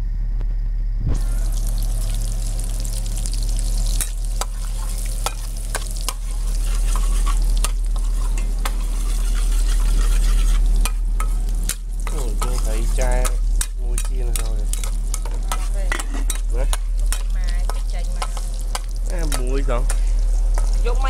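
Chopped garlic frying in hot oil in a metal wok on a portable gas stove: a sizzle that starts suddenly about a second in and keeps on, with the clicks and scrapes of a utensil stirring against the wok.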